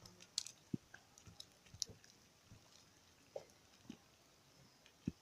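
Faint, irregular pops and clicks from a pot of ugali (maize-meal porridge) left to boil over a wood fire: low plops from bubbles bursting in the thickening mix, with a few sharp crackles.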